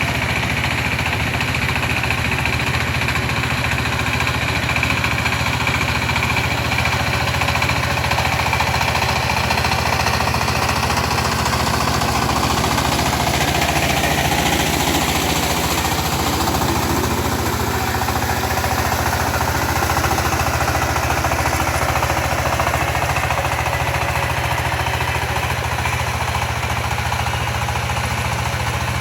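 Tractor engine running steadily with a rapid knocking beat while ploughing a field.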